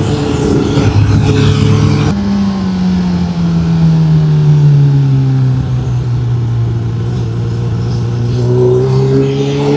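Honda CB1000R's inline-four engine running under way. Its pitch steps up abruptly about two seconds in, falls away steadily as the bike slows, holds, then rises again near the end as it accelerates.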